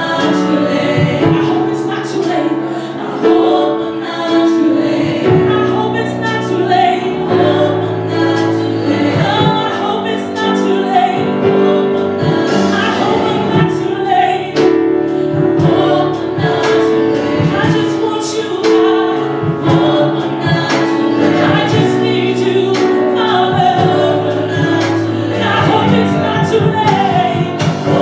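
Gospel choir singing with live band accompaniment, a steady beat underneath.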